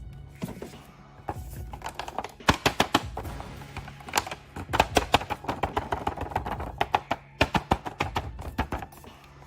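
Clusters of rapid clicking and tapping over a low steady hum.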